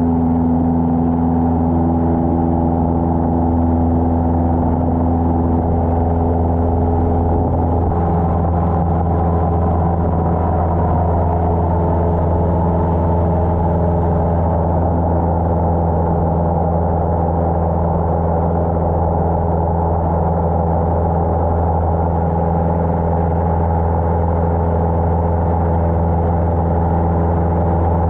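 Cessna 150's four-cylinder Continental O-200 engine and propeller droning steadily in cruise, heard from the cabin. A higher tone in the drone drops out about eight seconds in.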